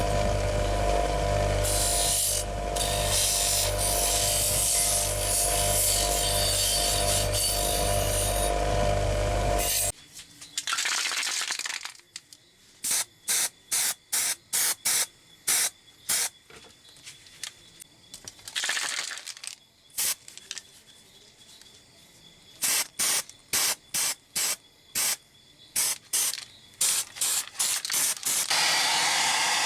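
A power tool runs steadily for about ten seconds and stops. Then come many short hissing bursts of spraying, two of them longer. Near the end a steady blowing hiss starts, like a hair dryer.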